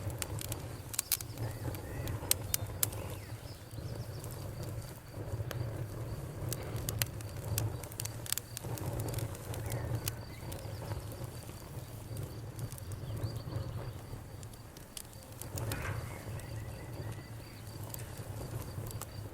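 Bonfire crackling, with frequent sharp pops and snaps over a steady low rumble of the burning wood. A cricket trills faintly and steadily through it.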